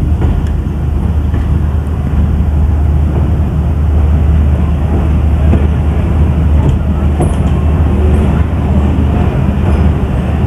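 Moving passenger train running on the track, a steady loud rumble that stays even throughout.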